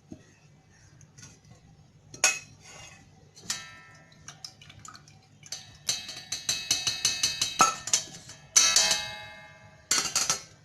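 Metal kitchen utensils knocking and clinking against a metal pot, each hit ringing briefly. A few separate knocks come first, then a quick run of taps about six a second, then a louder ringing strike near the end.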